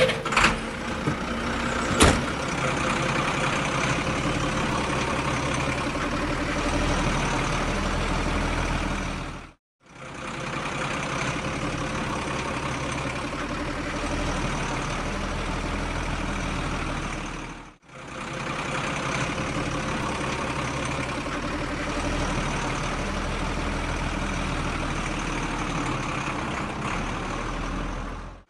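Heavy truck engine running steadily, a sound effect laid over the toy dump truck's driving. It cuts out abruptly twice, and a couple of sharp clicks come in the first two seconds.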